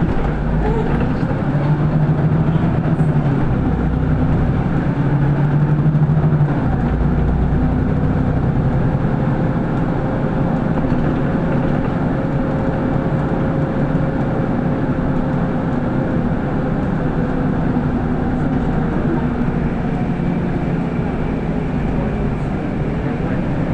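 City bus cabin noise while driving: the engine and drivetrain run steadily, their pitch rising and falling as the bus speeds up and slows.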